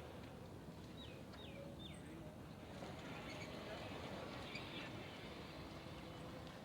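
A bird gives three short chirps, each dropping sharply in pitch, about a second in, over a faint steady hum of outdoor background noise.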